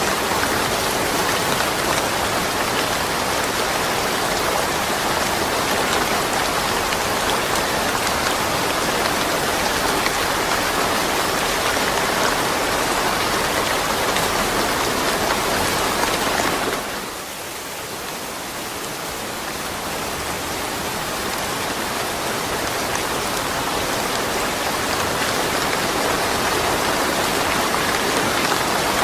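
Steady, heavy rain falling, a dense even hiss of drops. A little over halfway through it suddenly drops in level, then swells back gradually over several seconds.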